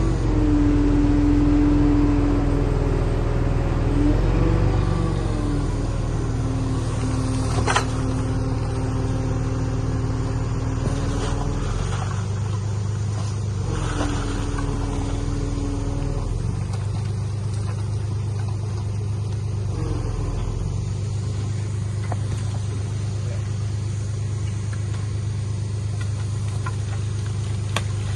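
Diesel engine of heavy earthmoving machinery running steadily, with a higher whine that comes and goes in the first half and a single sharp knock about eight seconds in.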